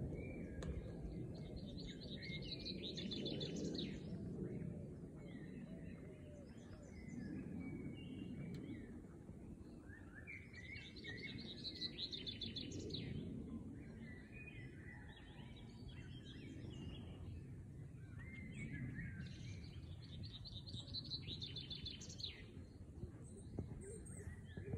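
Wild birds singing outdoors, with short song phrases of quick trilled notes coming back every few seconds, strongest about 1 s, 11 s and 21 s in. Under them runs a steady low rumble of background noise.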